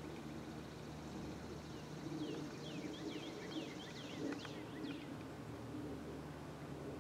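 A songbird sings a quick run of falling whistled notes for a few seconds in the middle, over a faint steady low hum from distant approaching diesel locomotives.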